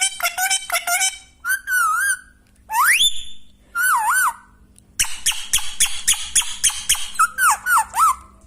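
Parrot whistling: a series of clear whistles that waver up and down in pitch, one long rising whistle about three seconds in, and a fast run of repeated chirps in the middle.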